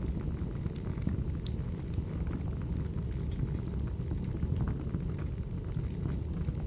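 Wood fire burning: a steady low rumble with scattered sharp crackles and pops, about one or two a second.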